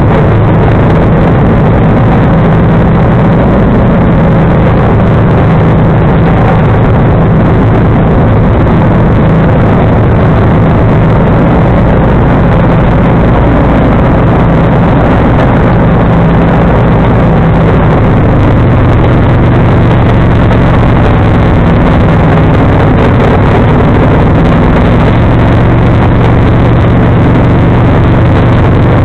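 John Deere 445 garden tractor's engine running loud and steady while driving a 47-inch front snowblower.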